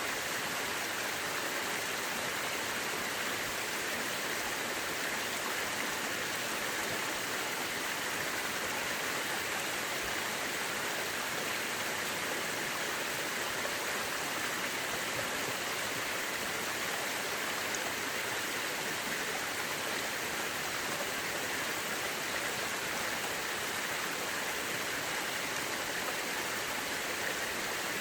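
Mountain river rushing steadily, an even unbroken noise of fast-flowing water.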